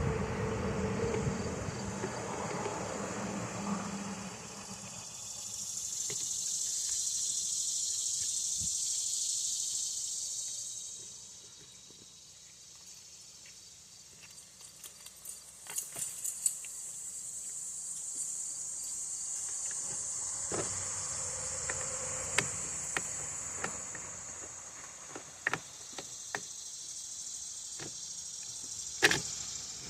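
Insects droning in a high, steady hiss that swells and fades away twice, with scattered light clicks and taps of small parts and tools being handled, one sharper click near the end.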